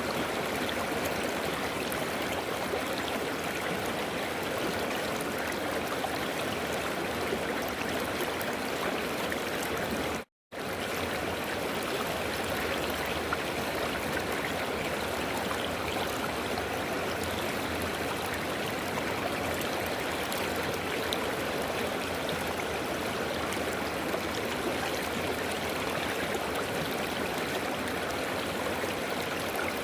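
River water flowing, a steady rushing noise that breaks off completely for a split second about ten seconds in.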